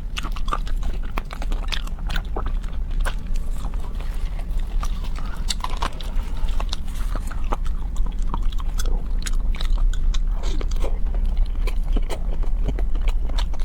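Close-miked chewing and biting, with crunching and many irregular wet mouth clicks.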